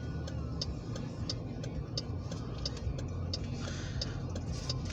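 Low steady rumble of diesel locomotive engines from a light-engine move, with an even, high-pitched ticking about three times a second over it.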